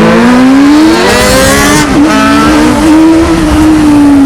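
Sport motorcycle engine with a raw, open exhaust accelerating hard, its pitch rising over the first second or so, then holding a steady high note while riding and easing off slightly near the end.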